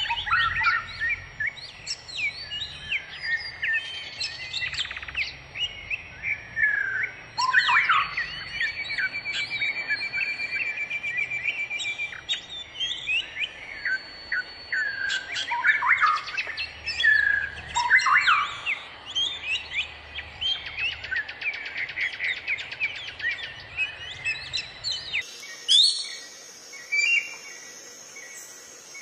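Wild birds singing and calling: a busy mix of varied chirps, short whistles and fast trills, with a low background rumble that cuts off abruptly near the end.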